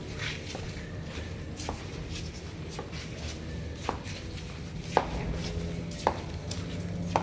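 Sharp, evenly spaced taps about once a second, faint at first and growing louder, with the last four clearest, over a steady low hum.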